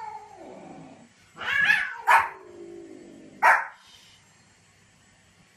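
Small white spitz-type dog barking: a double bark about a second and a half in and a single sharp bark at about three and a half seconds. Between them come softer, drawn-out calls that fall in pitch.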